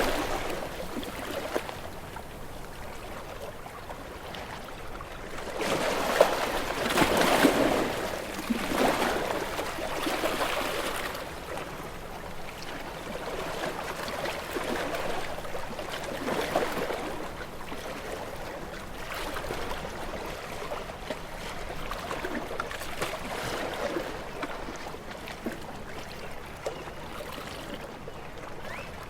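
Small sea waves washing onto a shore and drawing back, the sound of water rising and falling every few seconds. The largest wave breaks about a quarter of the way in.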